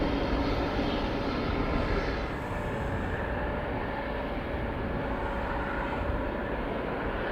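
Steady jet aircraft noise at an airport, a continuous rumble and rush; the higher hiss drops away about two seconds in.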